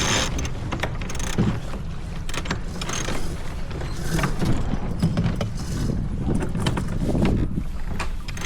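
A J24 sailboat under way: wind buffeting the microphone and water rushing along the hull, with scattered sharp clicks and knocks from the boat.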